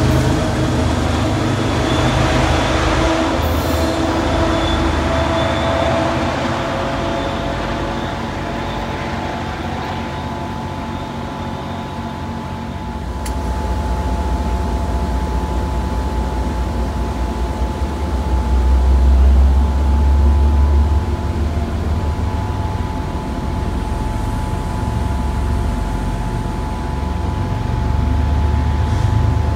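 MBTA commuter rail train passing close by: the HSP-46 diesel locomotive's engine drone falls in pitch as it goes past in the first few seconds. The coaches then roll by with a steady low rumble of wheels on rail and a faint steady hum, the rumble swelling about two-thirds of the way through.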